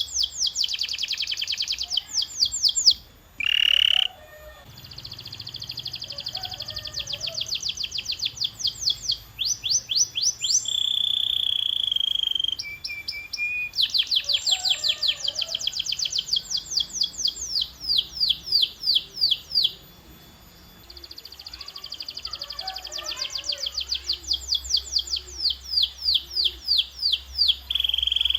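Canary singing a long rolling song: phrases of fast trills made of quickly repeated sweeping notes, changing from one trill to the next. About 10 s in there is a held whistle, and the song breaks off briefly about 3 s and 20 s in.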